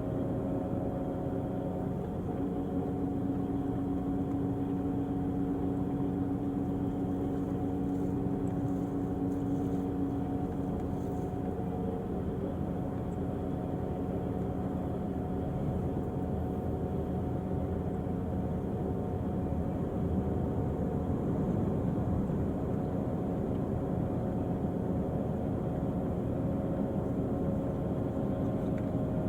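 Diesel engine of a Volvo-chassis Irizar i6s coach running with a steady, even hum that turns rougher and noisier about twelve seconds in.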